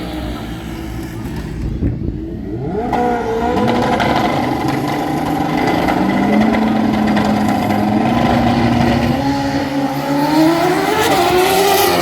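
Drag racing motorcycle launching and running down the strip under hard acceleration. Its engine note climbs steeply about three seconds in, holds steady, then climbs again near the end.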